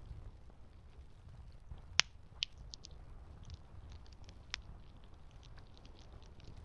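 Campfire crackling: a low steady rumble under scattered small snaps, with a sharp pop about two seconds in and a few smaller pops after it.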